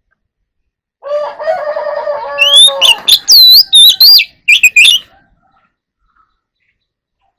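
Oriental magpie-robin singing one phrase of about four seconds. It opens with low warbling notes, then moves into loud looping, sweeping whistles that stop abruptly.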